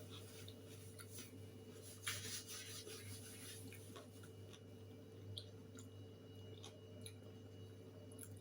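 A person chewing food quietly, with scattered small mouth clicks and a louder burst about two seconds in, over a steady low hum.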